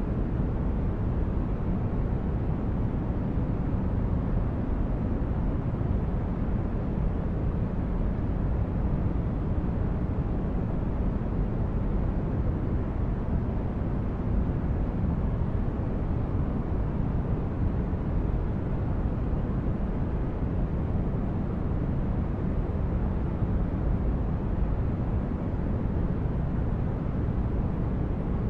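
Steady sleep-aid noise track: an even, deep hiss with most of its energy in the bass and little high treble, unchanging throughout.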